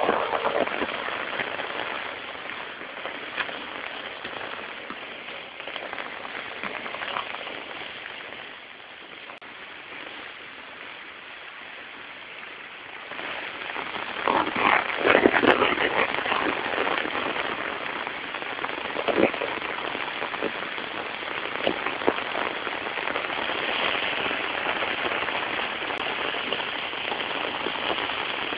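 Heavy rain pouring down onto a wet paved road and ground: a dense, crackling hiss of drops that grows louder for a few seconds about halfway through.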